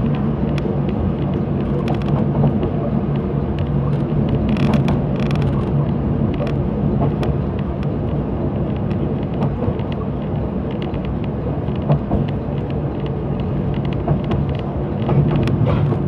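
Limited express train running, heard from inside the car: a steady rumble with a low hum and scattered clicks from the wheels and running gear.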